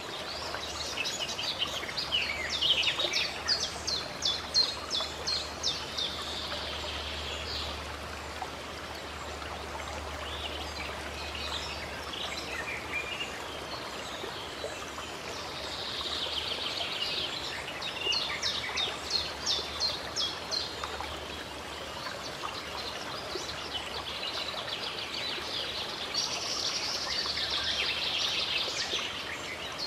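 Birds chirping in three runs of rapid, repeated high notes over a steady rush of running water from a stream.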